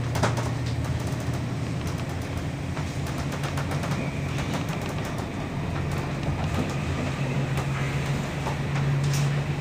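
Electric passenger train running at speed, heard from inside the carriage: a steady low hum with rapid, irregular clicks and rattles throughout, the hum swelling slightly near the end.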